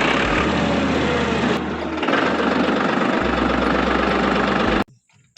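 A motor running steadily with an engine-like sound, cutting off abruptly near the end.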